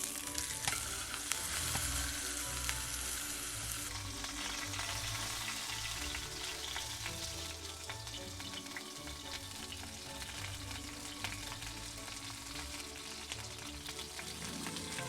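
Pork tomahawk chop sizzling in a hot pan on a wood-burning stove: a dense hiss with many small spitting pops, strongest in the first few seconds, then steadier.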